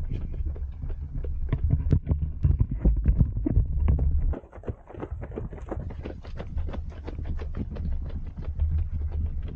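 Running footsteps of a group of runners: a quick, steady patter of shoe strikes on the path, over a low steady rumble, with a brief lull about four and a half seconds in.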